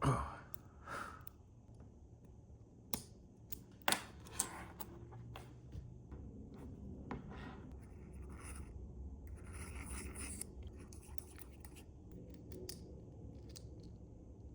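Hand work on small parts: sharp clicks and snipping, scratching and scraping sounds, with a few louder clicks about four seconds in and a longer stretch of scraping near ten seconds, over a low steady hum.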